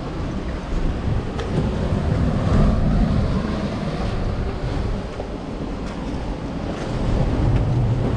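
Wind buffeting the microphone over the wash of sea waves on a rocky shore, swelling twice.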